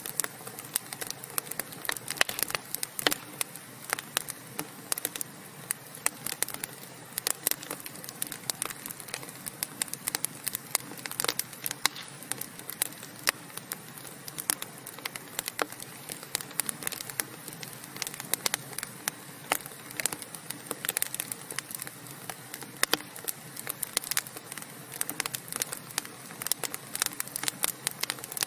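Wood fire crackling in a fireplace: a steady hiss with many sharp, irregular pops and snaps.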